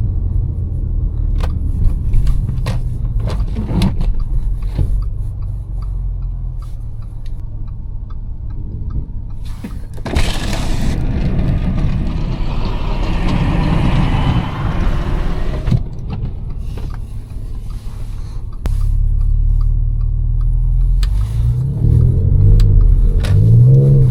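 Supercharged V6 of a tuned Audi S5, heard from inside the cabin: a low, steady drone at city speed with scattered clicks and scrapes and a few seconds of hiss midway. Near the end it revs up, the pitch climbing.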